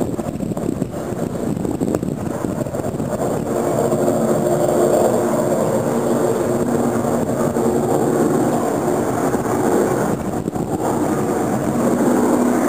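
A steady engine-like drone with a few held tones, heard over wind noise, growing a little louder about four seconds in.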